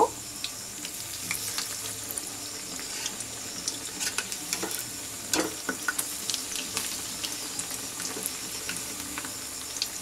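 Batter-coated bread pakoras sizzling and crackling in hot oil, the steady hiss dotted with small pops. A metal slotted spatula knocks against the pan a few times as the pakoras are turned over, most of them around the middle.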